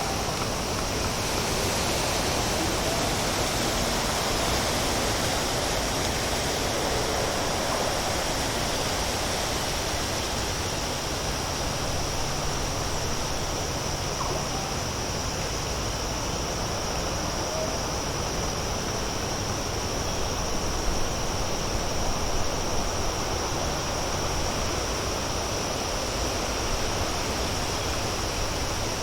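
Crows pecking and feeding: faint small taps and scratches, a few a little louder about 21 to 23 seconds in, under a steady outdoor hiss with a constant high-pitched band running through it.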